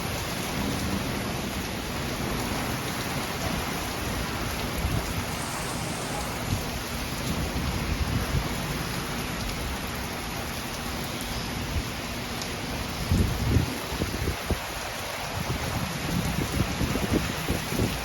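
Heavy rain pouring down in a steady hiss, with low rumbles of thunder that swell about two-thirds of the way through and again near the end.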